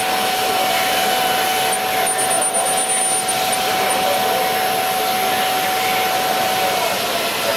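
A CNC milling-engraving machine running, its high-speed spindle giving a steady whining rush, with a steady tone that stops near the end.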